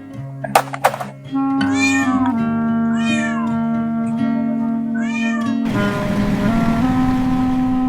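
Cat meowing three times, each call rising then falling, over background music of held notes. A few sharp clicks come in the first second, and a rushing noise joins the music for the last couple of seconds.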